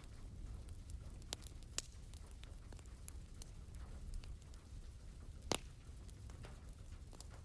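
Wood fire crackling in a fireplace, with scattered sharp pops over a low steady rumble; the loudest pop comes about five and a half seconds in. A gentle patter of rain runs underneath.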